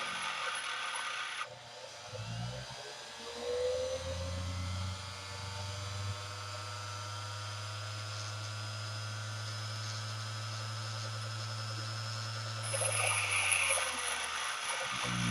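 A grinder running with a steady hum while a lathe tool bit is being sharpened. The steel is pressed against the wheel for about the first second and a half, a harsh grinding hiss, and again for the last few seconds.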